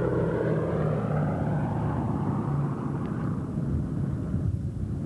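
A World War II bomber's radial piston engines droning as it makes a low pass over the field. The upper part of the sound dies down near the end.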